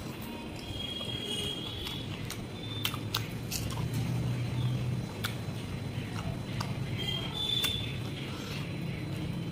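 Close-up chewing of a mouthful of rice and curry eaten by hand, with wet lip smacks and sharp mouth clicks scattered throughout.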